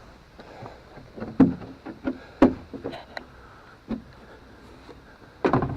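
A series of short, irregular knocks and clunks, several seconds apart at first and then closer together, with a louder cluster near the end.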